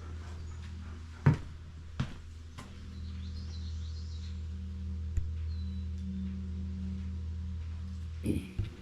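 Steady low hum, like a motor or electrical equipment running, with a few sharp knocks; the loudest knock comes just over a second in, and two come close together near the end.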